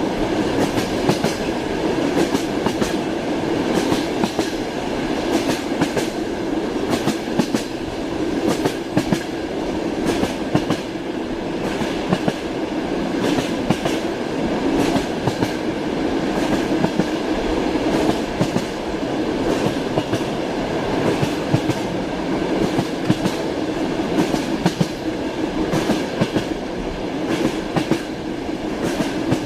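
Train wheels clattering over the rails: a steady rumble of a moving train under a constant run of clicks and knocks.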